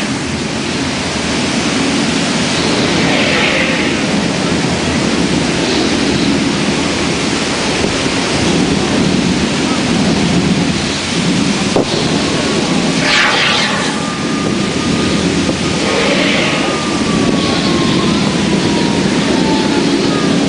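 The Mirage Hotel's artificial volcano erupting: a loud, steady rumble that carries on without a break.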